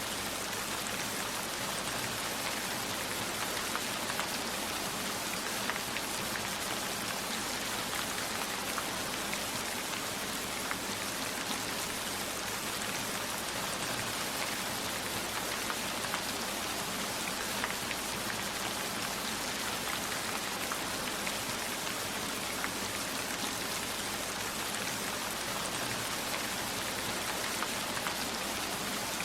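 Steady heavy rain, an even hiss with scattered faint ticks of individual drops.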